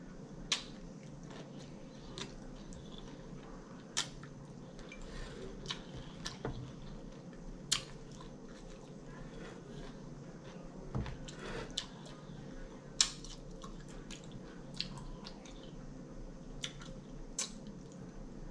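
A person chewing mouthfuls of salad, with brief sharp clicks scattered through, about a dozen in all, over a faint steady hum.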